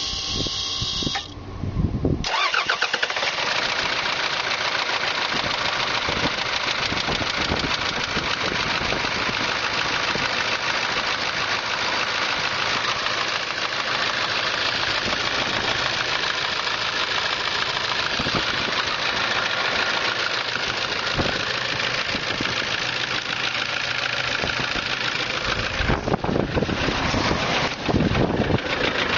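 Toyota 1KD-FTV turbodiesel engine starting about two seconds in, then running steadily with a knock. The sound changes near the end.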